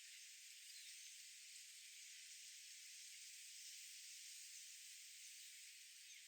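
Near silence: a faint, steady high hiss of outdoor background, with no distinct bird calls.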